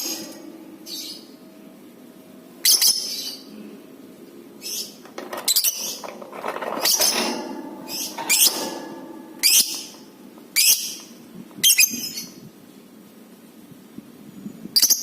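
Lovebird giving about a dozen short, shrill chirps and quick chattering calls, spaced irregularly with short pauses between them.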